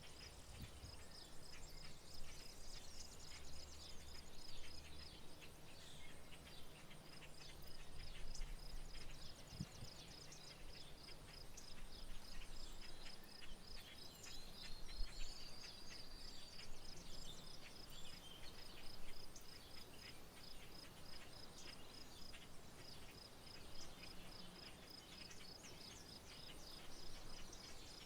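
Rural outdoor soundscape: a cricket chirps steadily in an even rhythm while birds call and chirp here and there, one giving a gliding whistle about halfway through. A low hum runs underneath.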